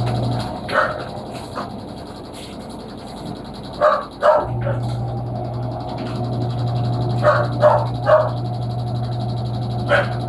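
A dog barking in short calls, about seven in all and grouped in twos and threes, over a steady low hum that cuts out about half a second in and comes back a few seconds later.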